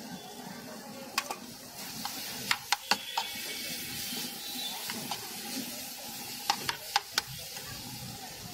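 Chickpea masala sizzling on a flat griddle while a steel spoon stirs and mashes it. Sharp clicks of the spoon striking the griddle come in quick clusters: about a second in, around three seconds, and near seven seconds.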